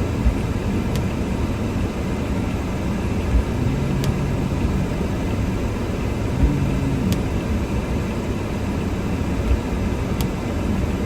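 Car driving through snow, heard from inside the cabin: a steady low rumble of engine and tyres, with a soft low thump and a faint tick about every three seconds.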